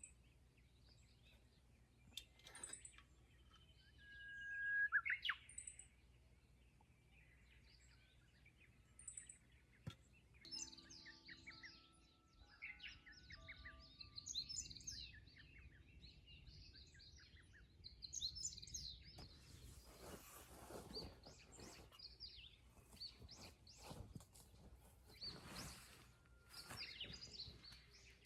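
Wild birds chirping and calling outdoors, a few scattered calls at first, then many short high chirps overlapping from about a third of the way in.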